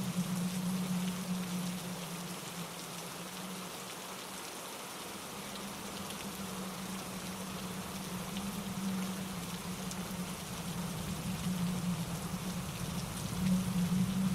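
Steady rain falling through trees, with wind in the branches and a mountain stream rushing over rocks. The wash eases a little midway and swells again near the end.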